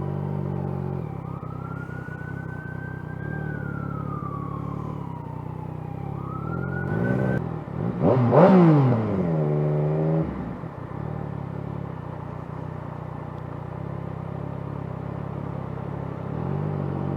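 An emergency vehicle siren wailing, its pitch slowly rising and falling, over the steady low running of a Yamaha FZ-09's three-cylinder motorcycle engine at low revs. About eight seconds in, a louder engine sound sweeps quickly in pitch for a couple of seconds, then the low running continues.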